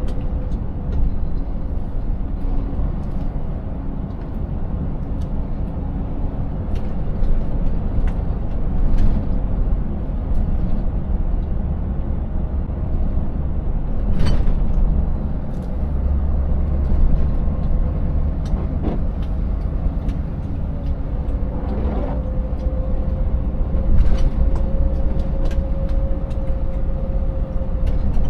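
Scania 590S truck's V8 engine running at a steady cruise with a deep, constant rumble, its engine tone drifting slightly in pitch near the end. Scattered knocks and rattles punctuate it, the sharpest about halfway through.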